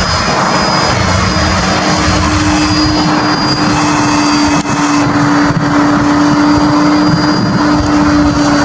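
Steady road and engine noise of a vehicle driving at a constant speed, with a steady low hum.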